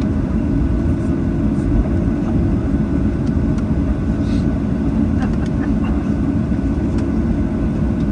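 Steady low rumble inside the cabin of a Boeing 737-800 as it taxis, its CFM56 jet engines running at taxi power, with a faint steady hum.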